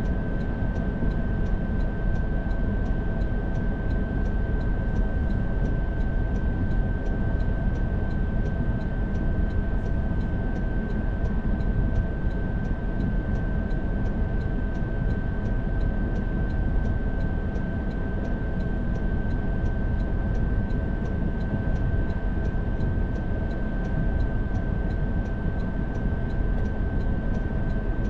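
Car driving at steady speed: continuous road and engine noise, with a steady high-pitched tone over it.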